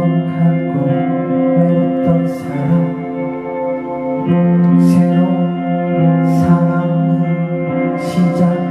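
Live band playing a song, recorded from the audience: guitar chords ring on in sustained layers, with a few short crashes in the highs.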